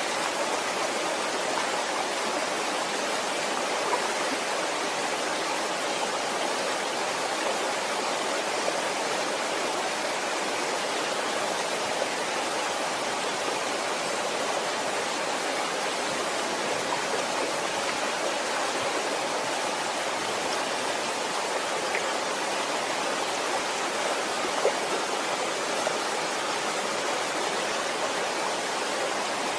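Waterfall: steady rushing of falling water, with a few faint splashes and drips.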